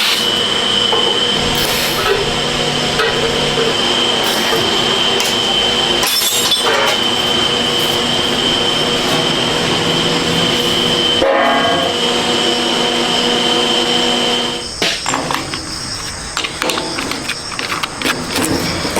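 Loud, steady factory machinery noise with a constant high-pitched whine over a dense rumble. About three quarters of the way through the whine stops and the noise turns rougher and more uneven.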